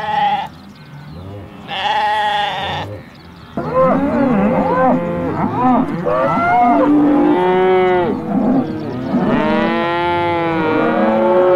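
Two short lamb bleats near the start, then a herd of cattle mooing from about three and a half seconds on, several overlapping calls rising and falling.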